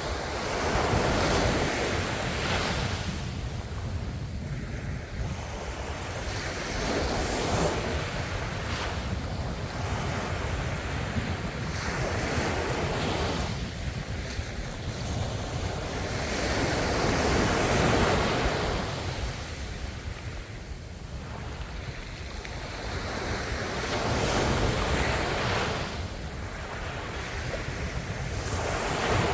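Ocean waves breaking and washing onto the shore, surging and receding in slow swells every few seconds over a steady low rumble.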